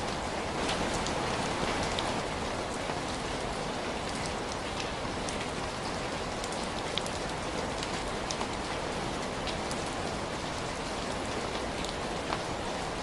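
Steady, even rain hiss with scattered sharp ticks mixed in.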